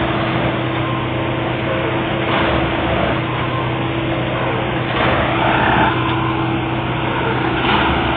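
Plasser & Theurer 09-32 CSM Duomatic track tamping machine at work: a steady engine hum under a louder noisy swell that comes back about every two and a half seconds, three times.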